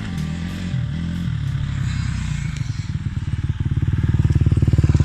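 Four-stroke single-cylinder motocross bike engine running with a fast, even firing beat that grows louder over the last couple of seconds.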